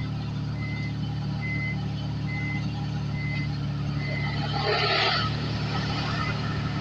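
Vehicle engine running steadily while a reversing beeper sounds a short high beep about every 0.8 seconds; the beeping stops about four seconds in, followed by a brief hiss.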